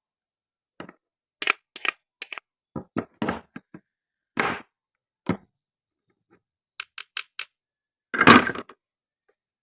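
Short sharp clicks and clacks of hard wooden or plastic toy pieces being handled and cut, a dozen or so irregular knocks, with a longer, louder crunching clatter about eight seconds in.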